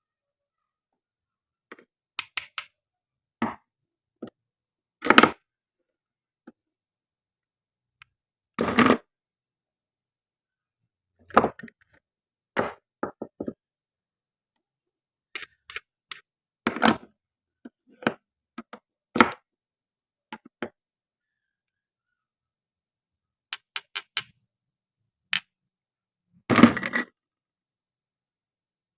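Hard toy food pieces knocking and clacking as they are handled and cut: a dozen or so short, sharp clacks at uneven intervals, some in quick little clusters, with dead silence between them.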